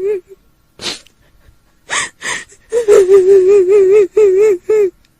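High, quavering female wail in the style of a kuntilanak ghost crying: sharp breathy gasps, then a trembling sobbing cry broken into short pulses in the second half.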